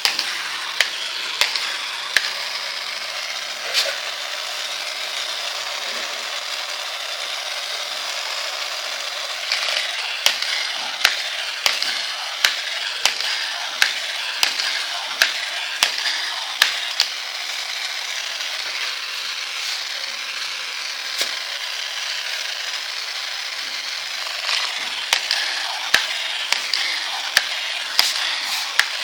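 Battery-powered toy Spiderman running: its small electric motor and plastic gears whir steadily, with a sharp regular click a little under twice a second that comes and goes as it moves.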